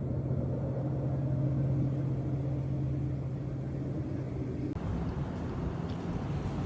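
A vehicle engine hums steadily. About five seconds in, it switches abruptly to a rougher, noisier vehicle sound.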